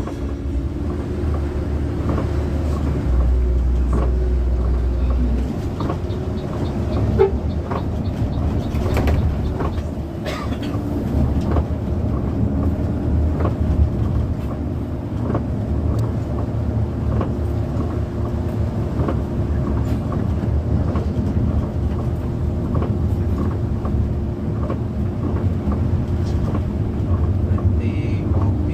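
Intercity bus under way, heard from inside the cabin: a steady engine drone and road rumble, with scattered clicks and rattles.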